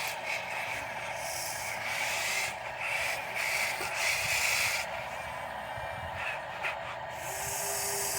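Heavy dump truck running steadily, with long bursts of air hissing, the last starting near the end like an air-brake release.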